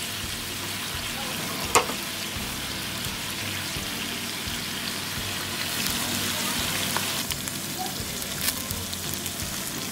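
Salmon fillet, broccoli and asparagus sizzling steadily in a hot grill pan, with a few sharp pops.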